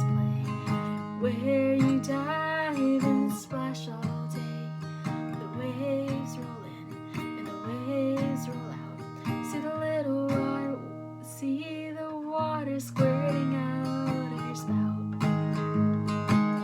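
Acoustic guitar strumming chords, with a wavering melody line carried over it.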